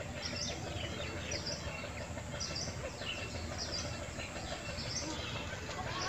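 Small birds chirping, many short high calls scattered through, over a steady low background rumble.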